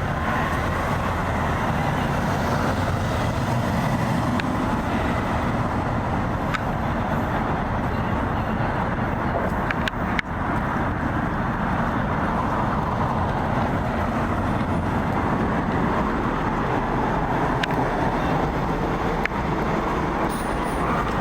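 Steady traffic noise of a city street, an even, unbroken wash of passing vehicles.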